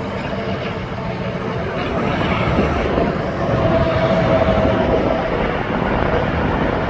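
Interstate highway traffic with tractor-trailers going by: a steady rush of tyre and diesel engine noise, a little louder about halfway through.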